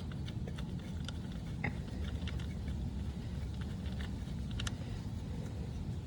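Light, scattered clicks and taps of a coil-pack bolt being handled and threaded in by hand on an engine, over a steady low rumble.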